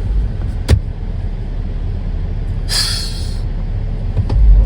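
Steady low rumble of a car driving, with a sharp click a little under a second in and a short hiss around the middle.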